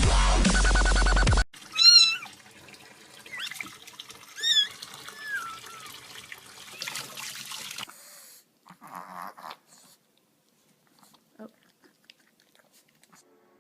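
A cat meowing, high-pitched, three or four times. Before the meows, loud electronic music cuts off abruptly about a second and a half in. The meows are followed by near quiet with a few faint small noises.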